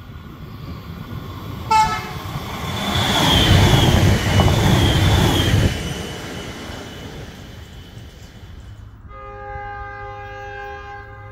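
Electric passenger train giving a short horn toot, then rushing past at speed with a high wavering whine over the rumble of wheels on rail, which fades after a few seconds. Near the end a different sound begins: a held chord of several steady tones over a low hum.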